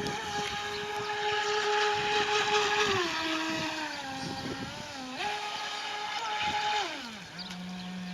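Whine of a homemade RC jet boat's 3900kv brushless electric motor running on the water, holding a steady high pitch and then dropping in pitch about three seconds in as the throttle eases. It dips and climbs back just after five seconds, then winds down near the end, where a lower steady tone takes over.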